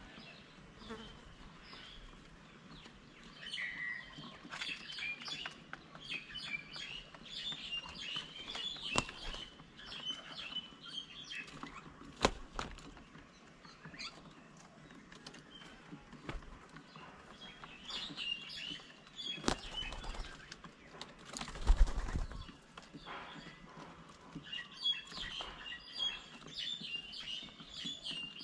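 Small birds chirp in quick clusters, with a few sharp knocks and wing flutters. The loudest sound is a brief flutter of wings a little past the middle.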